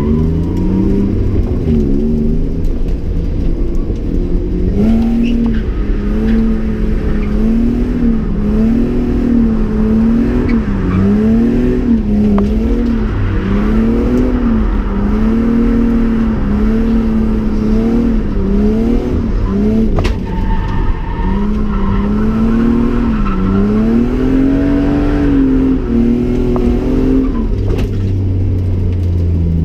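BMW E36 engine heard from inside the stripped cabin while drifting. The revs rise and fall over and over, every second or two, as the throttle is worked.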